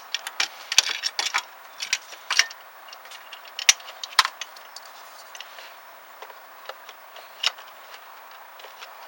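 Irregular sharp metallic clicks and clinks of hand tools working on an engine's serpentine belt tensioner, a couple of louder knocks near the middle.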